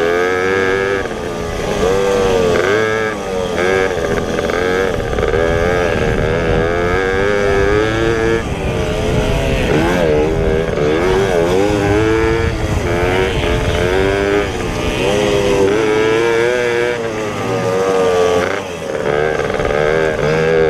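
Pit bike engines racing, the revs rising and falling over and over with the throttle.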